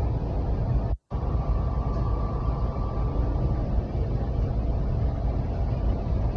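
Steady low rumble of an electric regional passenger train running at speed, heard from inside the air-conditioned car, with a faint thin whine for a couple of seconds. The sound cuts out completely for a moment about a second in.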